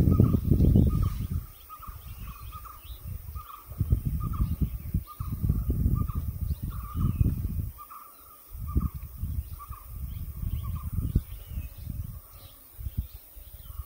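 Short bird calls repeated many times at an even pitch, with fainter chirps, over irregular bursts of low rumbling noise.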